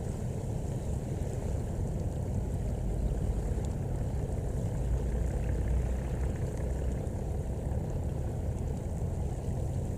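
Steady low rumble of a boat engine on the river, swelling slightly around the middle.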